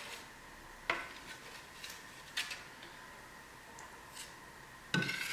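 Metal spatula and scraper clinking and scraping while wet filler is scooped up and spread on a wall, with sharp clinks about a second, two and a half seconds and five seconds in.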